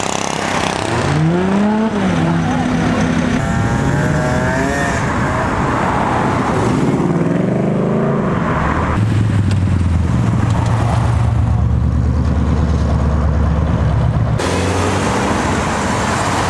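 Cars driving away one after another, engines revving up and down in pitch, then a deep, steady low engine rumble for about five seconds that cuts off abruptly before another car's engine takes over.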